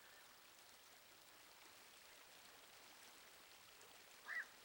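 Near silence: faint steady hiss of background ambience, with one short high chirp near the end.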